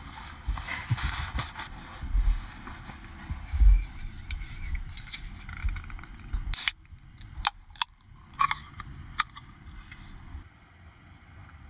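Low, gusty rumble of wind buffeting the microphone outdoors, with a handful of sharp, short clicks in the second half.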